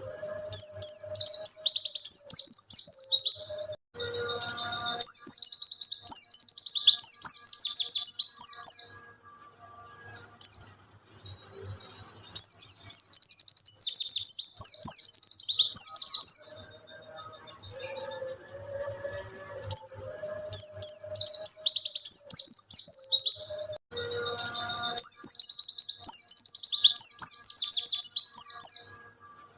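A white-eye (pleci) sings long, rapid, high twittering phrases of about three to four seconds each, five times, with short pauses between them. Fainter, lower calls sound in the gaps.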